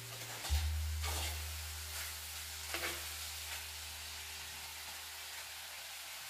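Chicken, onions and green chillies sizzling as they fry in a clay pot, with a metal spoon stirring and scraping against the pot a few times in the first three seconds. A steady low hum runs underneath.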